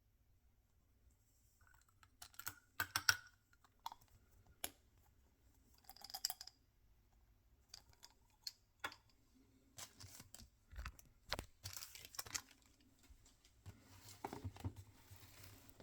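Toy packaging being handled and opened by hand: scattered clicks and taps with short bursts of crinkling and tearing.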